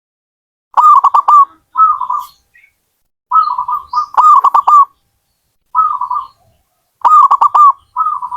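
Zebra dove (perkutut) cooing: about six phrases, each a quick run of short, stuttering coo notes, with pauses of about a second between them.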